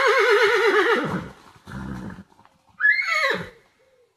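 A horse whinnying: a long quavering whinny that fades out about a second in, a short breathy blow, then a second, shorter neigh that rises and falls near the end.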